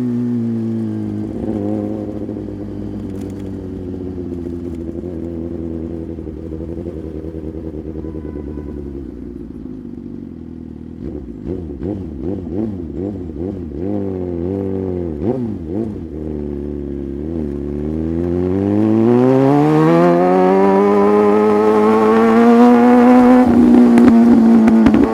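Motorcycle engine on the move, its pitch easing down at first and staying low and uneven through the middle, then rising steadily under acceleration in the last several seconds and holding high.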